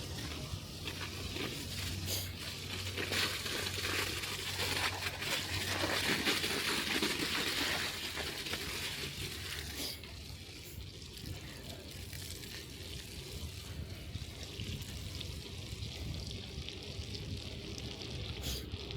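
Bicycle tyres hissing steadily over a snowy, wet road, louder for a few seconds in the middle and quieter from about halfway.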